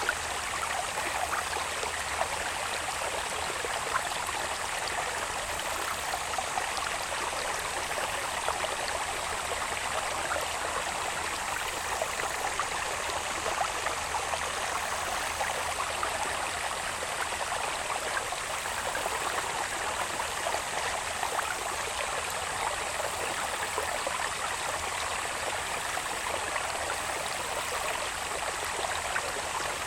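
Small irrigation channel of stream water babbling and trickling steadily, with a thin, unbroken high-pitched insect buzz above it.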